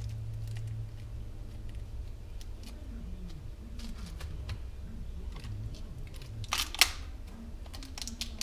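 Small clicks and taps of chainsaw rebuild-kit parts and packaging being handled, with a short plastic rustle nearly seven seconds in.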